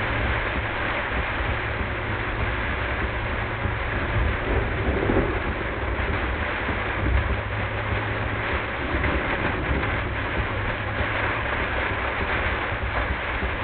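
Heavy thunderstorm rain pelting a moving car, with a steady low rumble of road and wet tyre noise underneath, sped up to double speed.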